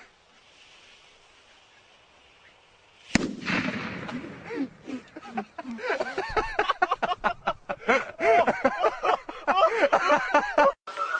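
A sudden loud bang about three seconds in, then a rapid string of pops and cracks mixed with short rising-and-falling squeals, cutting off abruptly near the end.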